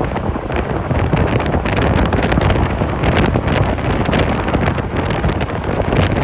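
Heavy wind buffeting the microphone in gusts of strong wind: a loud, continuous rumbling roar with rapid crackling flutter.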